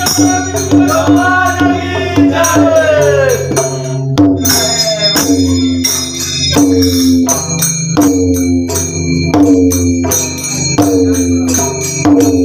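Bhajan accompaniment: jhal hand cymbals and a theka drum beat a steady rhythm under sustained held notes. In the first few seconds a voice sings a long sliding phrase over it.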